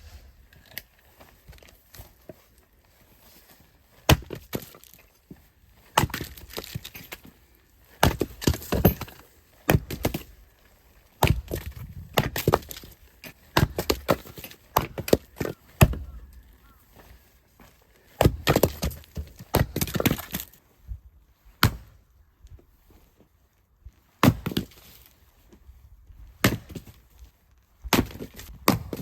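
Firewood being chopped and split by hand: a string of sharp wooden blows and cracks, irregularly spaced a second or two apart.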